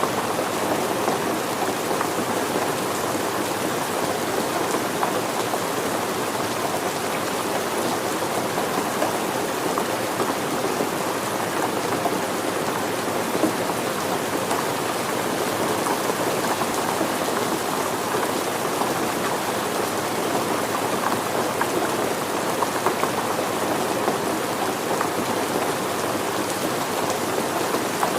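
Steady rain falling, an even hiss with many fine drops pattering on surfaces.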